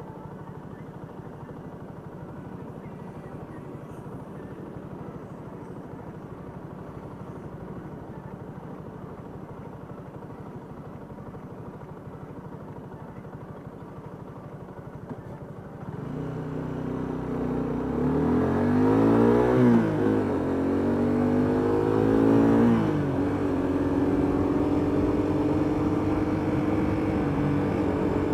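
Motorcycle engine running low and steady, then about sixteen seconds in it gets much louder as it revs, its pitch climbing and dropping a few times before holding steady at a higher pitch.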